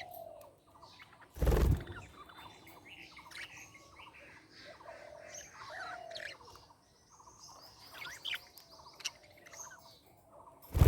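Budgerigars chirping and warbling: a busy run of short, quick chirps and chatter. A short loud burst of noise comes about a second and a half in.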